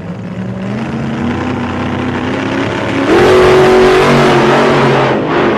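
Engine revving and accelerating, with a sharp surge in pitch and loudness about three seconds in and a brief drop near the end.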